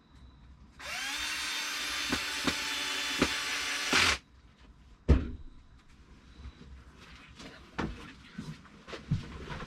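Power drill driving a screw through the lathe faceplate into the wood blank: the motor spins up, runs steadily for about three seconds and stops abruptly as the screw seats. A single sharp knock follows about a second later, with small handling clicks after it.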